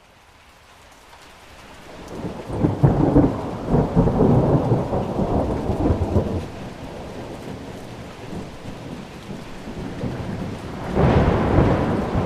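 Thunder rolling over steady rain: a long rumble swells over the first couple of seconds and stays loud for about four seconds. It eases back to the rain, then a second peal breaks near the end.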